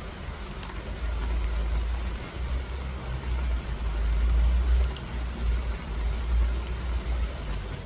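Rain falling steadily, with a loud, uneven low rumble underneath that swells and dips.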